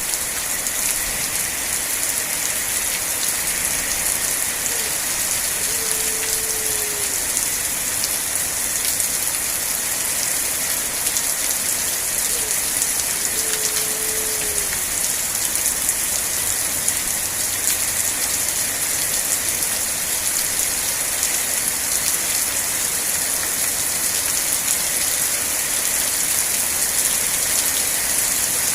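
Rain falling steadily, a dense even hiss. Two faint short falling tones sound through it about seven seconds apart.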